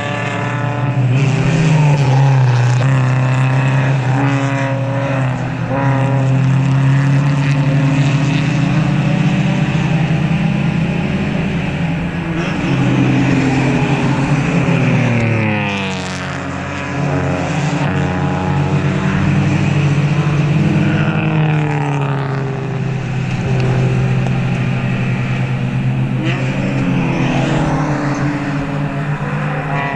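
Race cars' engines passing one after another, their notes rising and falling through gear changes. About halfway through, one sweeps down in pitch as it goes by.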